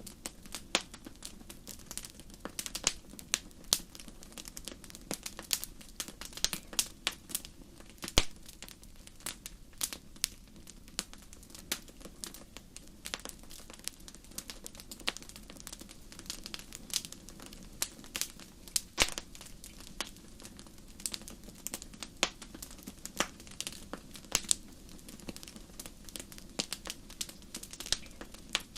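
Fire crackling in a fireplace: irregular sharp pops and snaps, several a second, with a louder pop about eight seconds in, over a faint steady low background.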